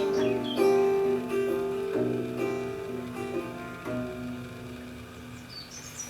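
Guitar playing the closing notes of a song, single plucked notes and chords ringing out and fading away toward the end.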